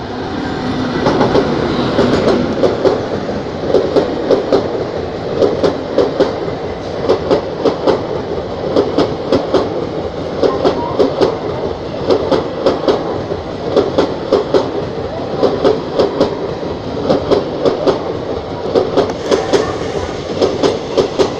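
Passenger coaches of an express train hauled by an electric locomotive passing close at speed, the wheels clattering over the rail joints in regular groups of sharp clicks about once a second over a steady rumble. The sound swells in the first second or so as the train arrives alongside.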